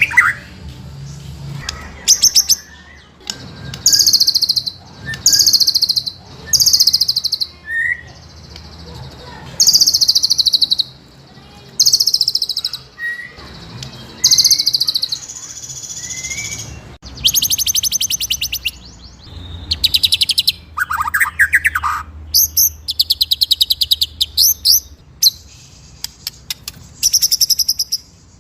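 White-rumped shama (murai batu) singing a string of short, high-pitched trilled phrases, about a second each with brief pauses between them: rapid rolling trills mixed with sharp, piercing notes.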